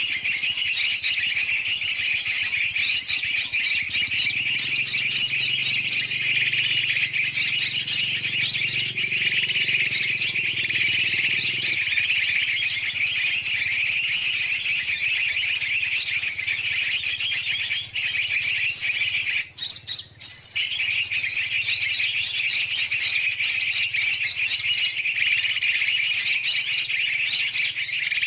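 Dense, noisy chorus of many small birds chirping and chattering over one another, a mixed-bird lure recording used to call birds such as yellow-vented bulbuls in. It breaks off briefly about two-thirds through, then carries on.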